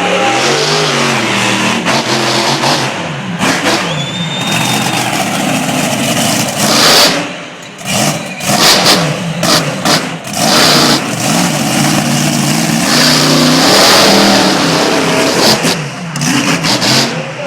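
Monster truck's big engine revving repeatedly, its pitch rising and falling, broken by several sudden loud bursts of noise.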